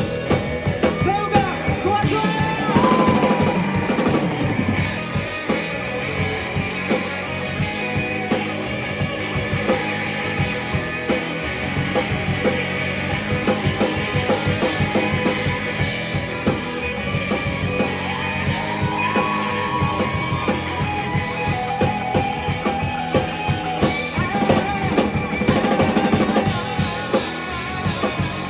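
Rock song played by a band with a busy drum kit, a melodic line gliding over it near the start and again midway.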